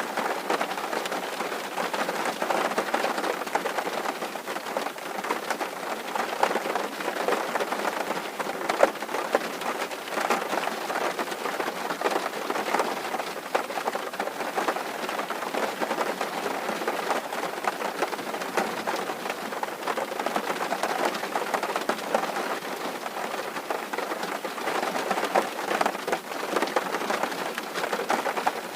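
Rain drumming on a tin roof: a dense, steady patter of many overlapping drops hitting the metal sheets.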